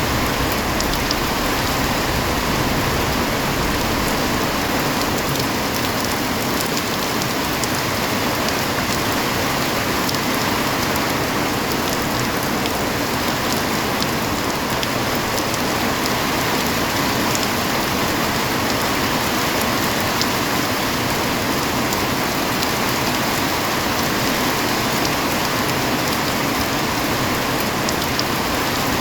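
Heavy rain falling steadily: a dense, even hiss of rain with scattered small drop ticks.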